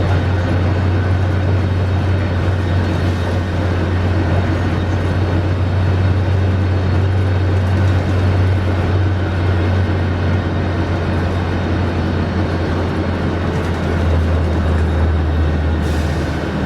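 Scania K310IB bus engine running steadily with a low drone; near the end its note drops lower.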